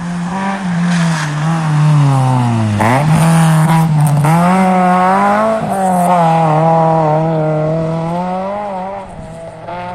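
Rally car engine running hard past: the revs sink until about three seconds in, then pick up sharply, with the pitch wavering under throttle through the middle before the sound fades near the end.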